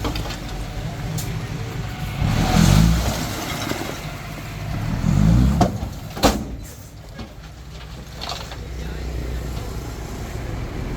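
Small bulldozer's diesel engine running under load and revving up twice as it pushes, with a sharp metallic clank about six seconds in, then settling back to a steadier run.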